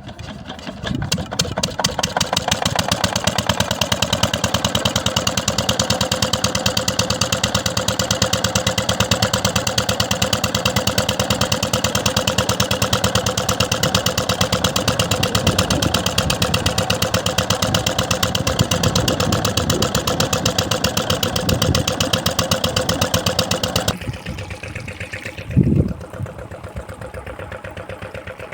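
An 8 HP water pump engine starting up and then running with a fast, even beat. About 24 seconds in it drops sharply in level, and only a fainter beat carries on, with a brief thump a second or so later.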